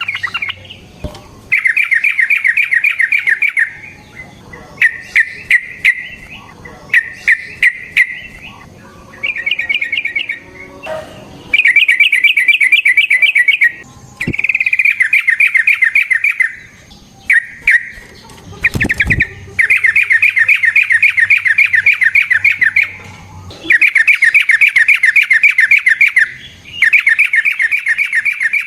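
Yellow-vented bulbul (trucukan) singing: phrases of fast, bubbling chattering notes, each a second or two long, repeated over and over with short pauses between. A few sharp clicks fall between the phrases.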